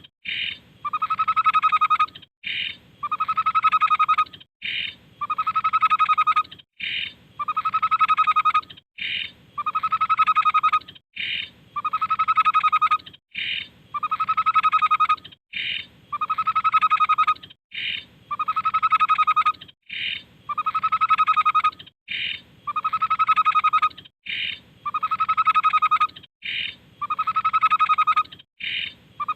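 Tepus babbler song: a short high note followed by a steady whistled phrase about a second long, repeated at an even pace of about one every two seconds, as in a looped training recording.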